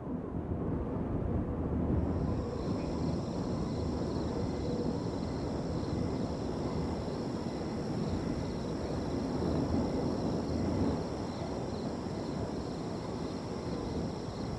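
Wind rushing steadily through a field, with crickets trilling on top in a constant high-pitched chorus; the crickets are missing for about the first two seconds and then come back in.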